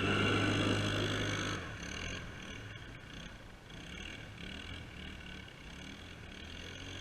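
Pit bike engine running, loud for the first second and a half, then dropping to a quieter, uneven note that rises and falls for the rest of the time.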